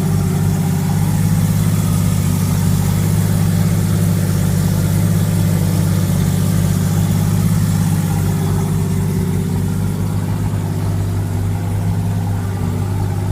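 Turbocharged Mazda 20B three-rotor Wankel engine idling steadily, a stable idle after setup, though the owner suspects the ignition timing is still off.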